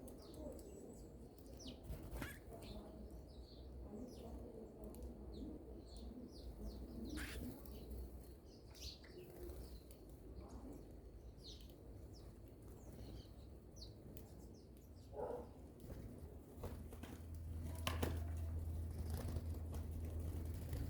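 Small wild birds at a fruit feeder: scattered short, high chirps and calls, with wing flutters and a few sharp clicks. A low rumble rises near the end.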